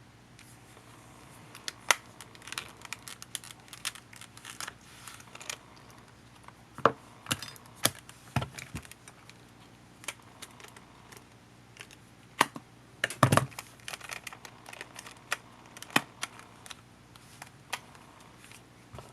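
Irregular small clicks and taps of tools and small plastic parts being handled while a compact camcorder is taken apart, with a cluster of louder knocks about twelve to thirteen seconds in.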